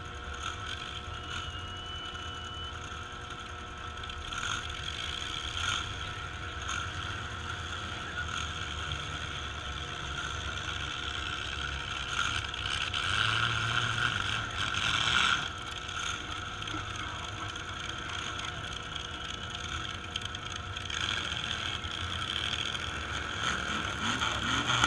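Engines of demolition derby trucks running as they drive out onto the track, heard from a distance as a steady low rumble with a rise around the middle.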